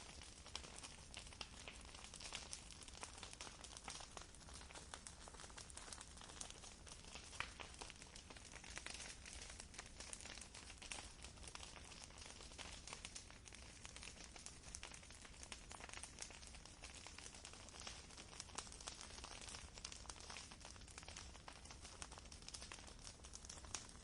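Campfire crackling faintly: a dense, irregular run of small pops and snaps over a soft hiss.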